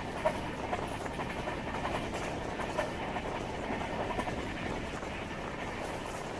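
Passenger train running along the track: a steady rumble with irregular clicking and knocking from the wheels, and one sharp knock about a quarter second in.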